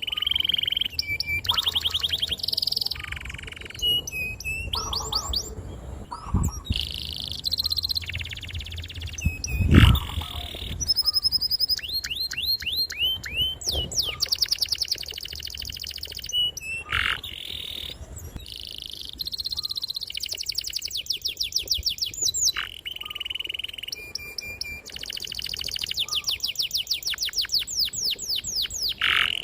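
Domestic canary singing a long, continuous song: blocks of fast repeated high notes and rolling trills, each held a second or two before switching to the next. A low thump about ten seconds in.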